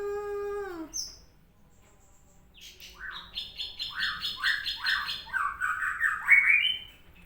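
A bird calling: a quick run of about seven rising chirps, the last one the highest. Before it, a woman's voice ends on a long falling note.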